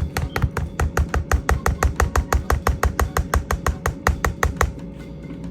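Mashed potatoes being beaten with a utensil in a pot. Each stroke knocks against the side, about seven times a second, and the knocking stops near the end.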